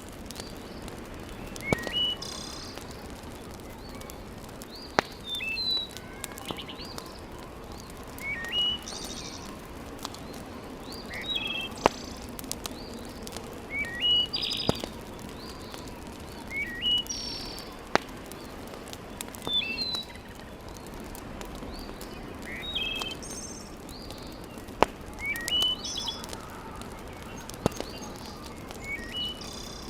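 A songbird repeating a short chirping phrase about every three seconds, over a steady background hiss, with occasional sharp pops from a wood fire.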